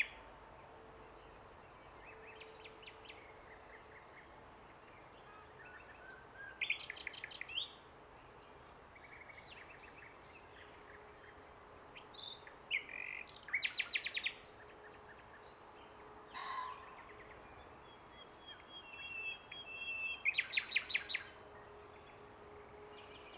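Common nightingale singing: separate song phrases every six or seven seconds, each with fast runs of repeated notes and whistles, with quiet pauses between phrases.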